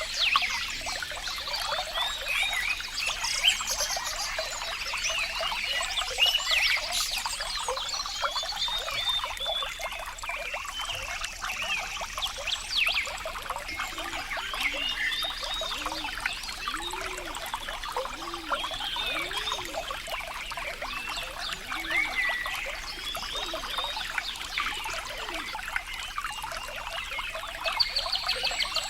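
Water trickling and splashing steadily, with many short chirping animal calls over it, and a run of low, arching calls about halfway through.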